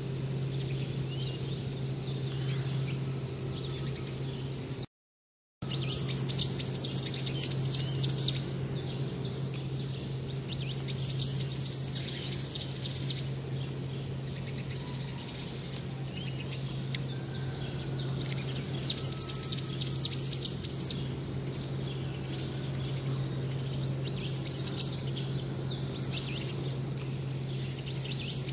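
Birds chirping in bursts of rapid, high, quickly falling notes, each burst lasting two or three seconds, over a steady low hum. The sound cuts out completely for about a second around five seconds in.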